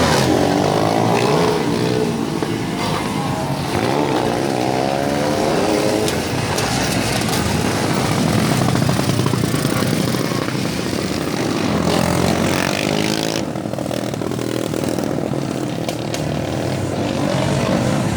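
Motor vehicle engine running, its pitch rising and falling several times over steady road noise.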